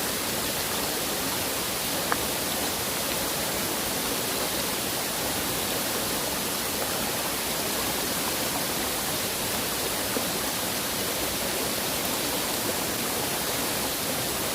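Heavy storm rain falling steadily, an even, unbroken hiss.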